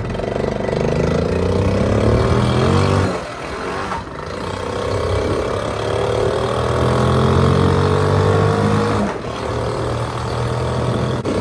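Honda C70 motorcycle's small single-cylinder four-stroke engine accelerating through the gears under way. Its pitch climbs, drops at a gear change about three seconds in, climbs again for several seconds, and dips briefly about nine seconds in.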